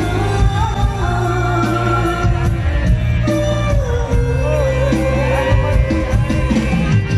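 Live mor lam band music played loud: a heavy bass and drum beat under a wavering, ornamented sung melody.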